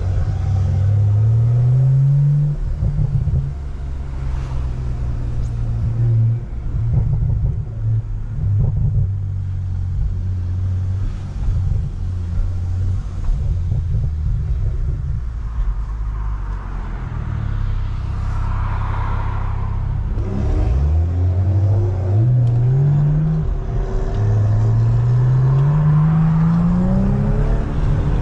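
Tuned, straight-piped Toyota GR Supra's turbocharged B58 3.0-litre inline-six, with catless downpipe, driving under load. It revs up in a pull at the start, cruises more steadily, then makes two rising pulls one after another near the end, with a short drop in pitch between them at the shift.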